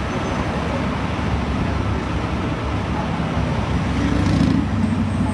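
Street traffic: motor vehicles running and passing, a steady low rumble with a slight swell about four seconds in.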